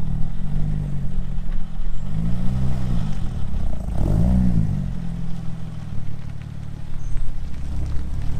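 A vehicle engine running at a steady low idle and revved three times, each rev rising and falling in pitch, the last about four seconds in the strongest.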